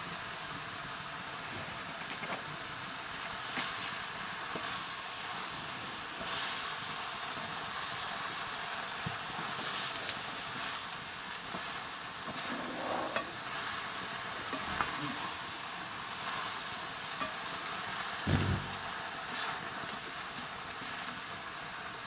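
Mushrooms frying in a black metal wok over a wood fire: a steady sizzle, with a wooden spatula scraping and stirring the pan every few seconds. A dull thump about eighteen seconds in.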